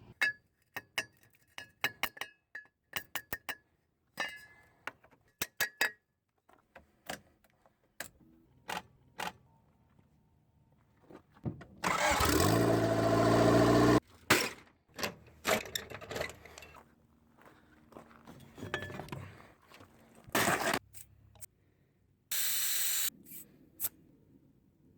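Honda CRX cold start attempt after about 18 years sitting: scattered clicks, then about twelve seconds in a loud two-second burst of the engine turning over with rising pitch that stops abruptly, followed by more clicks and two shorter loud bursts.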